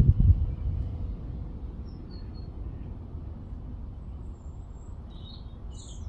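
Outdoor ambience with a steady low rumble and a few low thumps in the first second, the loudest sounds here. Faint, short chirps of small garden birds come about two seconds in and again near the end.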